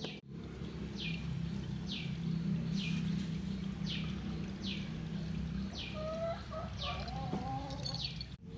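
A bird repeating a short, high, downward-sliding call about once a second over a steady low hum, with a few lower, level-pitched calls joining in near the end.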